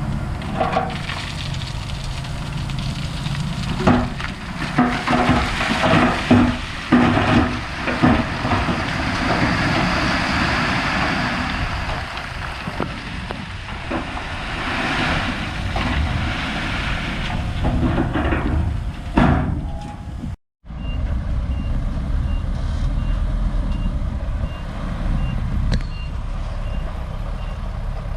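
Heavy diesel earthmoving machinery running, with a burst of metallic clanks and knocks in the first few seconds. After a brief break, the engine runs steadily while a reversing alarm beeps about once a second.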